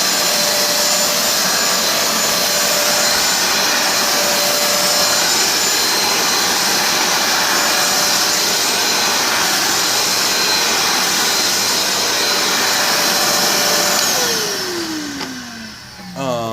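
Simplicity hand vacuum running steadily with a high whine over a loud rush of air. About fourteen seconds in, its motor winds down, the whine falling in pitch as it fades.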